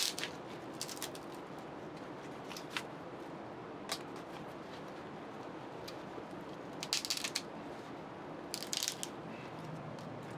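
Steady rain hiss, with short crackling, clicking sounds now and then; the loudest clusters come about seven and nine seconds in.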